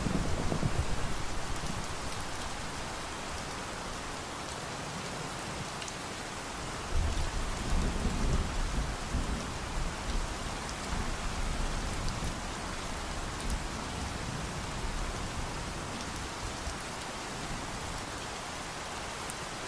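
Steady heavy rain, with low thunder rumbling: one roll fading out over the first couple of seconds, another rising about seven seconds in and dying away over the next few seconds.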